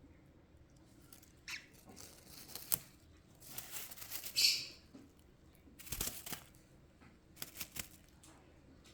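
A baby parrot moving about in a box: scattered scratches, rustles and sharp knocks. There is a louder burst of rustling a little after halfway and a couple of knocks about two-thirds of the way through.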